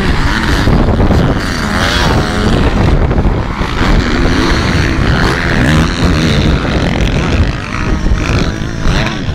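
Motocross bike engines revving up and down as the bikes ride the track, their pitch rising and falling repeatedly over a steady low rumble.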